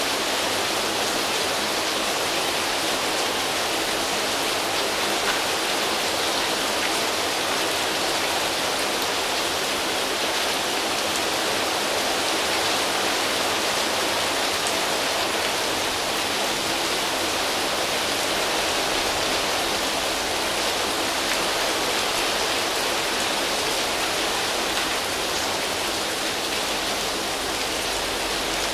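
Steady rain falling on foliage, an even hiss of many drops with no let-up.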